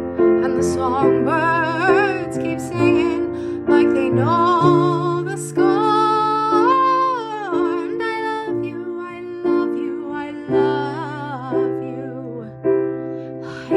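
A song: a singing voice holding long notes with a wavering vibrato over sustained instrumental accompaniment.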